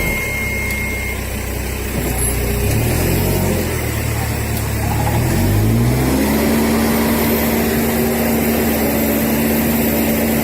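Truck engine revving up over a few seconds, then held at steady high revs for several seconds, typical of an engine working hard to tow a vehicle stuck in mud.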